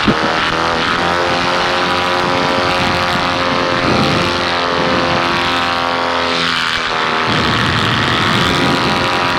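Paramotor engine and propeller running steadily at high power during takeoff and climb-out.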